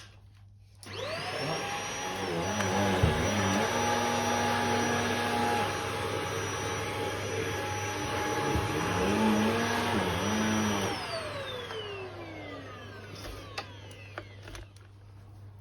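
Shark HZ500UK corded stick vacuum in handheld mode, switched on about a second in, whining up to speed and running, its pitch dipping briefly twice. It is switched off near the end and winds down with a falling whine.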